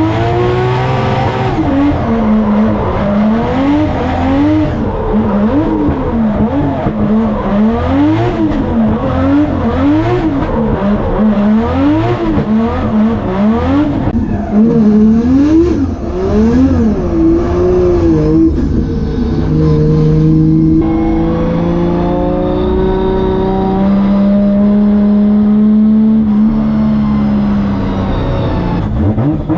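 Drift car's 2JZ straight-six engine revving up and down about once a second as the car is driven through a drift. After about 18 seconds it settles into a steadier, lower note.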